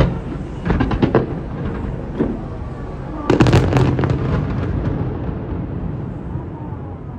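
Fireworks going off: a sharp bang at the start, a quick run of bangs about a second in, then a dense cluster of bangs and crackles about three and a half seconds in that dies away.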